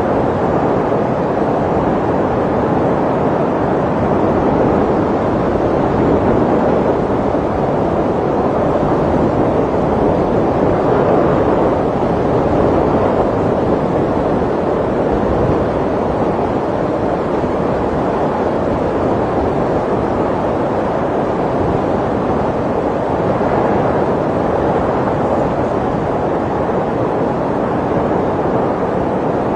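Snowstorm wind blowing steadily, a dense rushing noise that swells and eases slowly.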